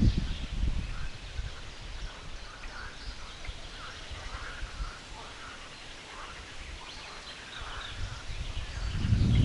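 Several songbirds singing, with short chirps and trills throughout. A low rumble sits under them right at the start and builds again near the end.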